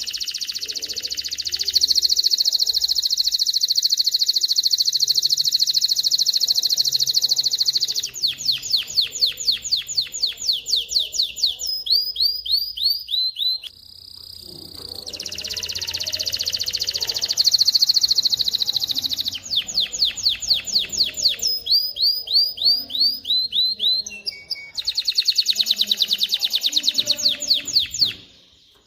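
Male domestic canary singing: long, very rapid rolling trills alternate with runs of repeated sweeping chirps, several a second. The song breaks briefly about 13 seconds in and again about 24 seconds in before starting a new phrase.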